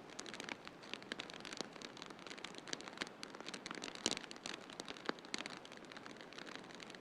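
Wood fire in a fireplace crackling, with many small irregular pops and one sharper pop about four seconds in, over a steady hiss.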